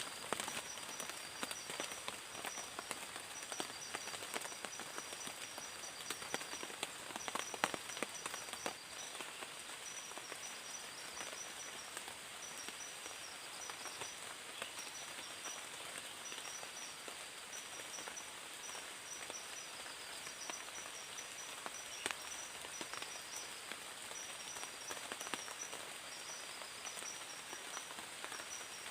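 Night ambience in a tropical forest: a steady hiss of light rain, with insects calling high up in short chirping trains that repeat every second or so. A few faint taps stand out in the first several seconds.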